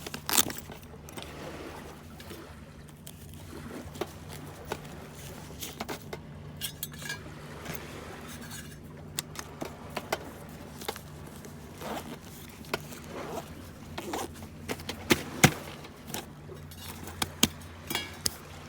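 Scattered light clinks and rattles, a few sharper knocks among them, over a steady low engine-like hum.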